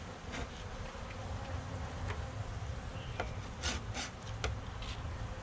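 Honeybees buzzing around an open hive, with several short knocks and scrapes of wooden hive parts being handled, the loudest a little past halfway.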